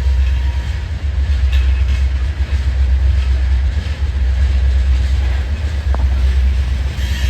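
Slow-moving freight train rolling past, a steady low rumble.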